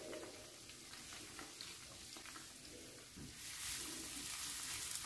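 Faint sizzle of chopped spring onions frying in a little hot oil in a frying pan, stirred with a spatula. The hiss grows louder about three and a half seconds in.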